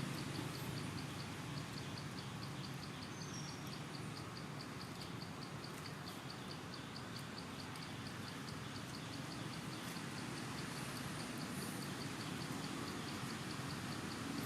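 Outdoor ambience: a steady hiss of background noise, with an insect chirping in an even, high-pitched pulse about four times a second.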